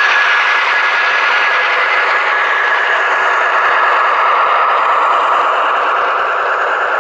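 Model train rolling along the layout track, a steady rushing rumble of small wheels on rail and motor. A thin high tone over it fades out during the first few seconds.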